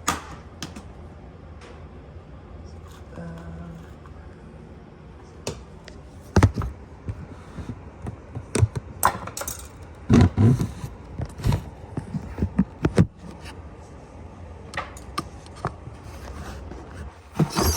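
Scattered knocks, clicks and scrapes of things being handled, with the heaviest thuds about six and ten seconds in, over a faint steady low hum.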